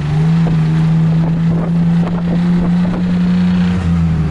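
A motorboat-type engine running at a steady pitch, loud and close, easing off slightly near the end.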